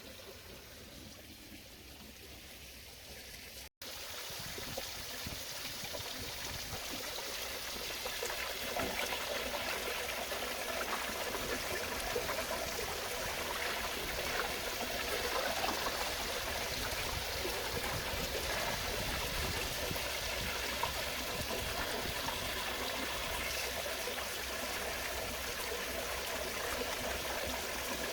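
Water running and trickling steadily into a frog pond as it is topped up after flushing. It is quieter at first, cuts out briefly about four seconds in, then runs on louder.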